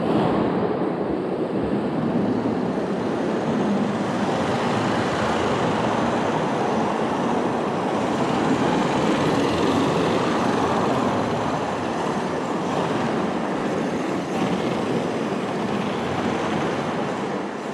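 HSP 94123 RC drift car being driven, making a steady rushing noise with no clear pitch.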